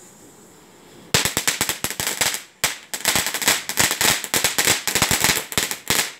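Firework going off in a rapid run of loud cracks and pops, like a firecracker string. It starts suddenly about a second in and keeps going, with a brief pause near the middle.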